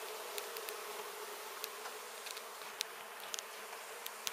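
A large honey bee colony buzzing steadily as one dense, even hum, with a few sharp ticks scattered through it.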